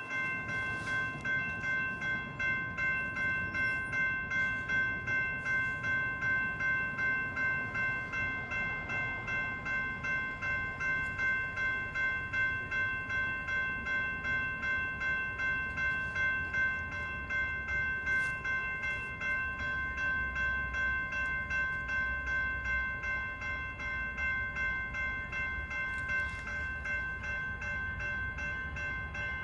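Railroad grade-crossing bell ringing steadily, about two strikes a second, over a low rumble.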